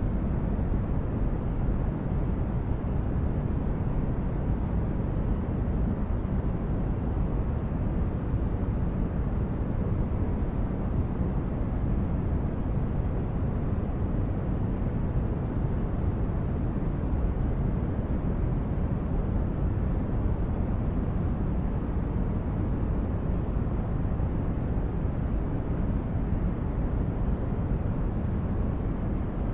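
Sci-fi spaceship ambience: a steady, low rumbling noise of the brown-noise kind, heaviest in the bass, with no changes or separate events.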